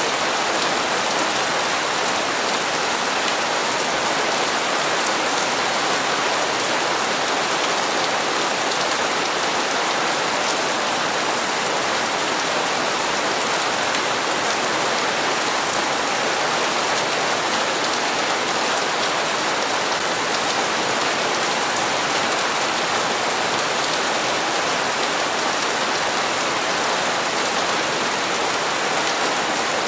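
Steady rain falling on hard surfaces, an even hiss with faint scattered drop ticks and no change in strength.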